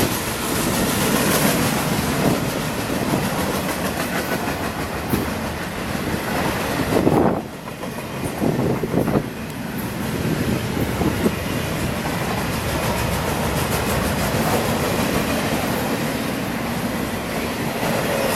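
A long freight train of intermodal and trailer-on-flatcar cars rolling past, wheels clicking over the rail joints with a steady rumble. It goes briefly quieter about seven seconds in, then the clatter resumes.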